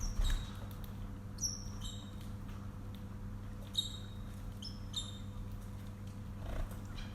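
Small pet birds giving short, high chirps that slide downward, a few every second or two, over a steady low hum.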